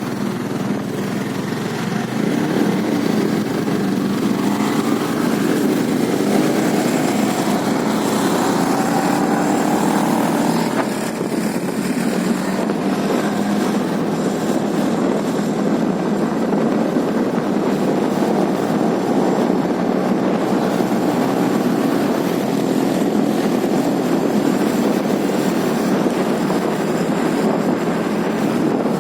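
Motorcycle running on the move, its engine note mixed with steady rushing wind on the microphone, the pitch shifting a little in the first ten seconds or so.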